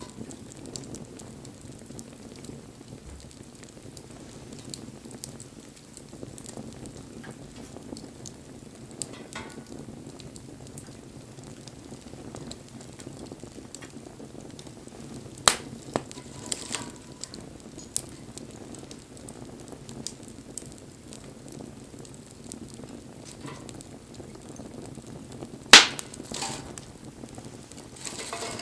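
Wood campfire burning, with a steady low rush and scattered small crackles. Two sharp, loud pops stand out, one about halfway through and one near the end.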